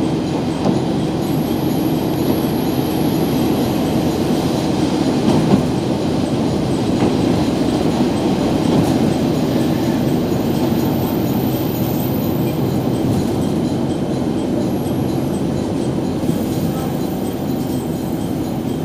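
A passenger train moving through a station, with a steady rumble of wheels on rail.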